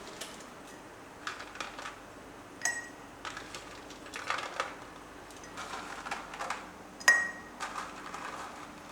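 Kitchen prep handling sounds: light scraping and rustling, with two sharp ringing clinks of dishware a few seconds apart.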